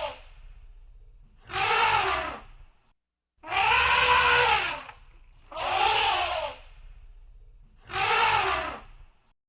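Elephant trumpeting: a call about every two seconds, each lasting about a second and rising then falling in pitch, with a faint low rumble between calls.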